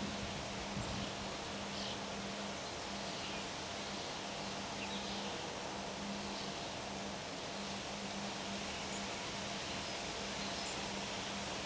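Steady outdoor wind ambience, an even hiss, with faint, brief bird chirps every second or so and a low hum that keeps breaking off and coming back.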